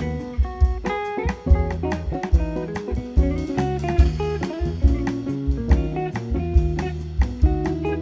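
Live instrumental band music: guitar playing over bass and a drum kit, with frequent sharp drum and cymbal strokes.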